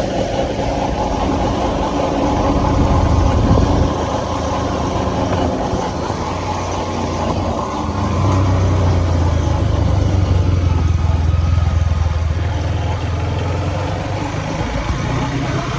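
Husqvarna motorcycle engine running under way, its note dropping about four seconds in and settling into a new steady pitch about eight seconds in as the throttle and gear change.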